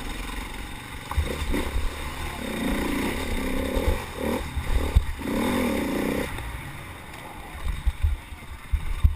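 A small racing engine running under load, its pitch rising and falling, then easing off about six seconds in. Low buffeting thumps, like wind or bumps on the microphone, run through it.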